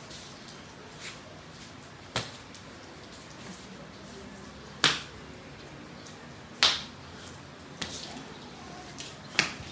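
Five sharp snaps or slaps at uneven gaps of one to three seconds, over a faint steady hiss.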